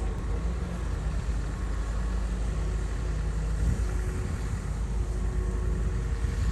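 Komatsu bulldozer's diesel engine running steadily with a low, even rumble.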